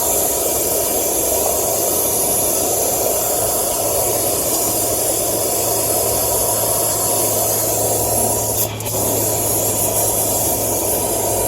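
Gas brazing torch flame hissing steadily while a copper refrigerant line joint is brazed. The hiss dips briefly with a sharp click about nine seconds in.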